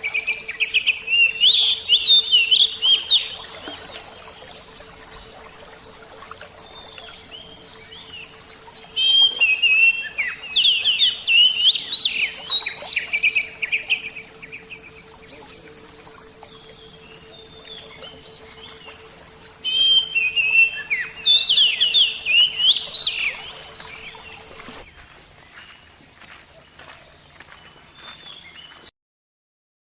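Oriental magpie-robin (kacer) singing loud, rapid, varied phrases in three bursts, over a faint steady hum. All sound cuts off shortly before the end.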